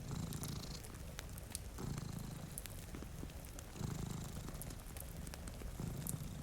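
Domestic cat purring in slow cycles that swell about every two seconds, over scattered crackles of a wood fire and a steady soft hiss of rain.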